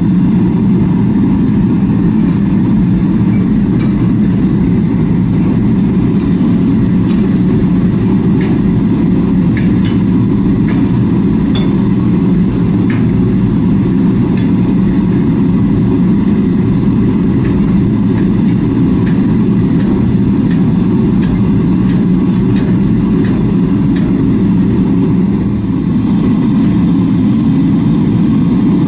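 A machine running with a steady, loud low drone, with faint ticks over it.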